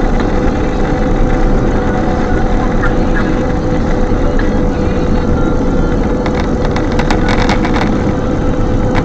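Strong gusting wind buffeting the microphone: a loud, continuous rumble with a faint steady hum, and a patch of rattling clicks about six to eight seconds in.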